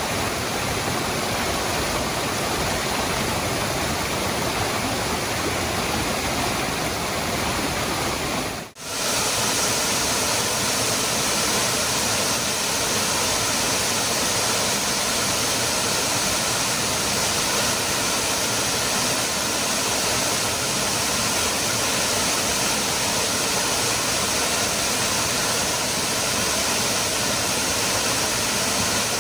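Waterfall: a steady rush of falling water. About nine seconds in it cuts out for a moment, then comes back slightly brighter, as at an edit between recordings.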